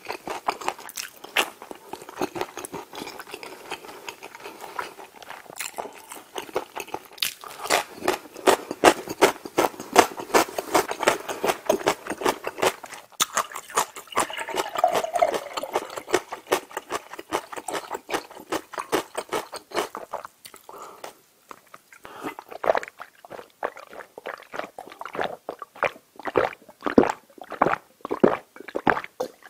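Close-miked eating sounds: wet chewing and lip smacking on chicken in sauce. About halfway through, a drink is poured from a metal kettle into a glass mug. Near the end come separate gulps as it is drunk.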